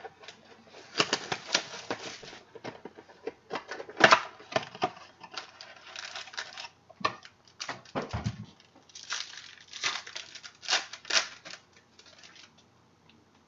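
Trading cards and their packaging being handled on a table: an irregular run of clicks, taps and paper-like rustles that stops near the end.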